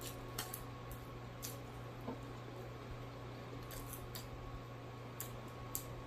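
Faint close-up chewing of fried catfish: a scattering of short, crisp mouth clicks and smacks, over a steady low hum.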